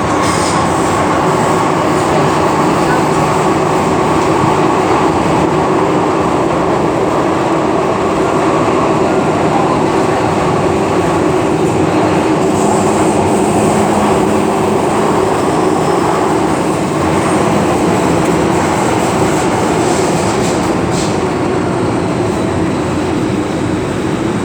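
MTR M-train electric multiple unit running at speed, a loud steady rumble of wheels on rail with a faint steady hum. A brief higher hum comes in about halfway through, and a few light clicks follow near the end.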